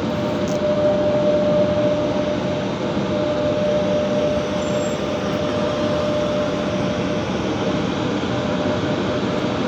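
Electric locomotive running with a steady mechanical noise and a constant hum, without any change in pitch.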